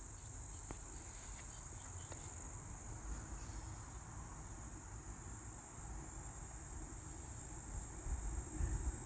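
Steady high-pitched chorus of insects shrilling without a break, over a low rumble.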